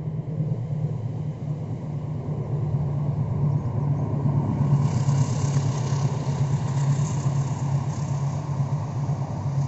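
Taksaka passenger train running past: the steady low rumble of its diesel locomotive, swelling slightly, with a hiss of wheels on rails joining about halfway through.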